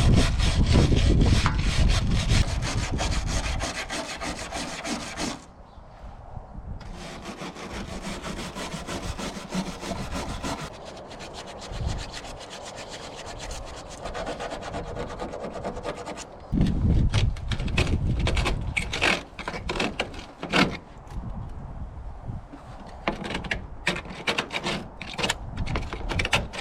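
Sanding on the rusty steel bodywork of a Mitsubishi L300 van: a rasping rub in long spells, a short pause about five seconds in, then shorter uneven strokes with a few sharp knocks in the second half.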